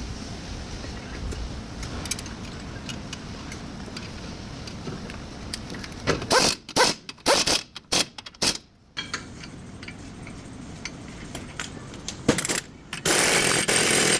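A power tool fired in a run of short bursts, then a longer burst of about a second near the end, over a steady low workshop background.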